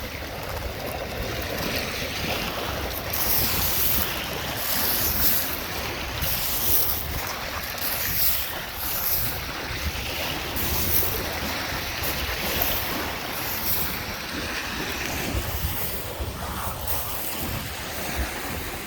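Lake Michigan waves washing onto the beach, with wind buffeting the microphone.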